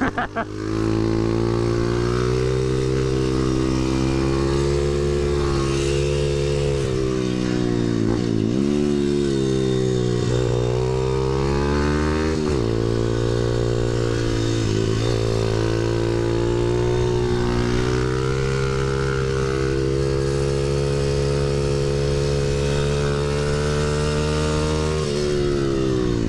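Stomp 140 pit bike's single-cylinder four-stroke engine running hard around a track, mostly holding steady high revs. About four times in the first half the pitch dips and climbs back as the throttle is eased for corners and opened again.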